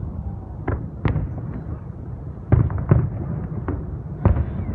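Fireworks display shells bursting: a series of about six sharp booms over a steady low rumble, the loudest pair about two and a half to three seconds in and another strong bang near the end.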